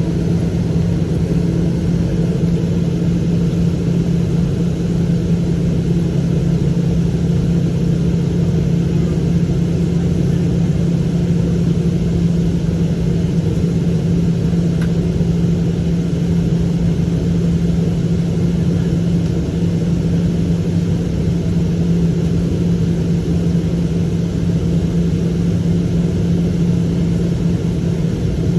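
Cabin noise inside a Boeing 777-200ER, its Rolls-Royce Trent engines running with a steady deep hum over a wide rumble. The sound holds level throughout without building.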